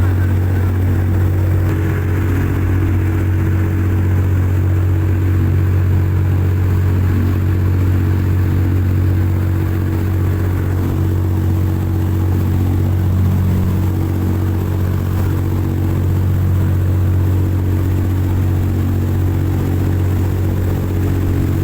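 Speedboat engine running steadily at high speed: a constant low drone with several steady tones above it.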